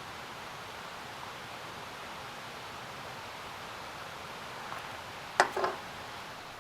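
Steady rustling hiss, broken about five seconds in by one sharp knock followed at once by a short, softer clatter.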